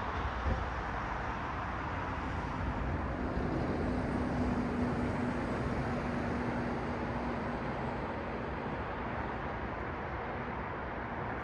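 Road traffic: a steady wash of tyre and engine noise, with one vehicle's engine hum swelling and fading as it passes in the middle. There is a brief knock about half a second in.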